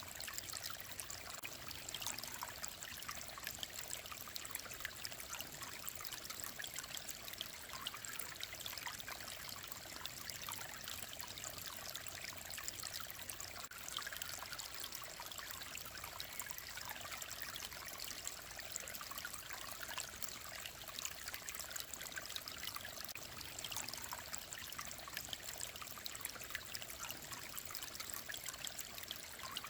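Mountain stream flowing steadily, a constant babble of small trickles and splashes.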